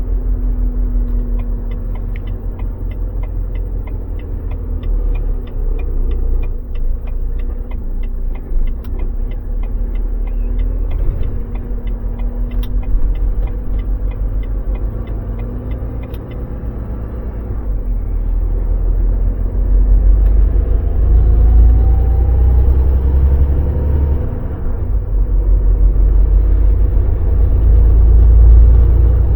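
Volvo VNL semi truck's diesel engine running with a deep, steady rumble heard from the cab, growing louder about two-thirds of the way in. For roughly the first half a fast, regular ticking runs over it, the turn signal clicking.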